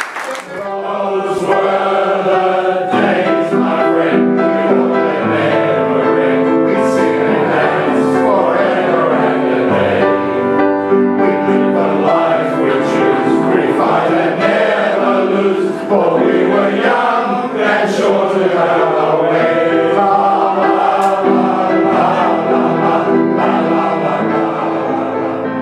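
A choir singing in harmony, several voices holding long notes together.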